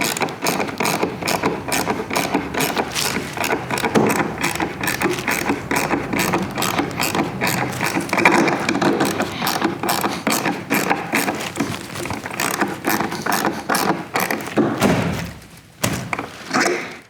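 Rapid, continuous mechanical clicking like a ratchet. It fades about fifteen seconds in, comes back briefly and stops just before the end.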